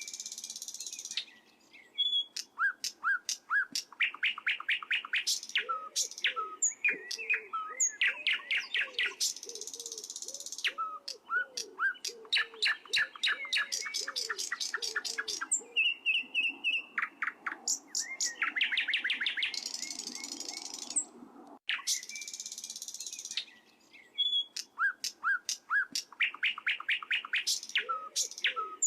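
Small birds chirping and trilling: fast runs of high, sharp chirps and buzzy trills with short pauses between phrases, the same sequence starting over about 22 seconds in.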